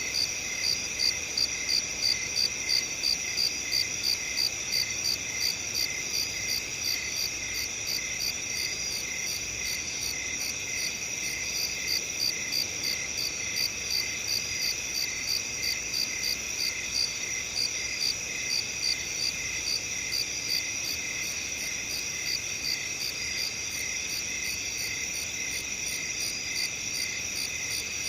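Several crickets chirping together in a steady, even rhythm of about two to three chirps a second, over a constant high trill.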